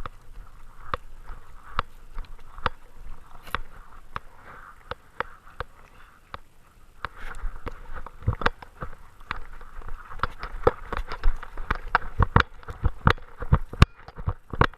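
Irregular clicks and knocks from a GoPro camera and its mount strapped to a Great Dane as the dog moves, over a faint hiss. The knocks come thicker and louder about halfway through.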